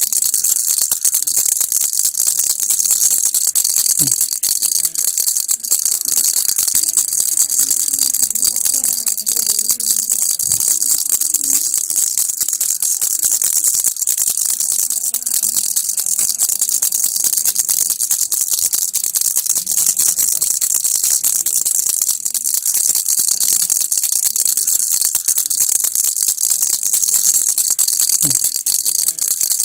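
Baby rattle (kilukki) shaken continuously: a steady, high-pitched, unbroken rattle of small beads.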